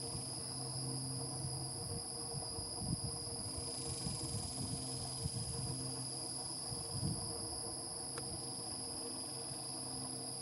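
Insect chorus: a steady high-pitched trill, with a fainter low hum that stops about two seconds in.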